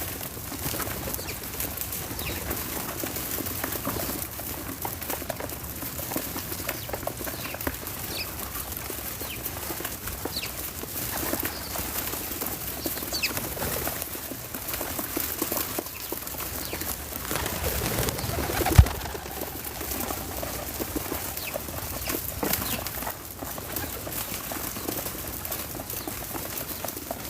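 Backyard outdoor ambience with birds: scattered short high chirps over a steady hiss, and a single sharp knock about two-thirds of the way through.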